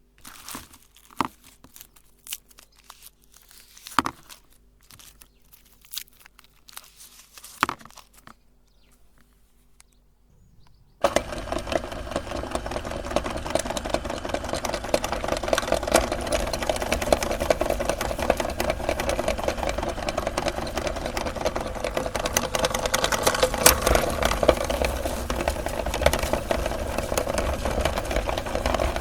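Scattered clicks and crinkling from handling, then an electric meat grinder switches on abruptly about a third of the way in and runs steadily, grinding chocolate candy.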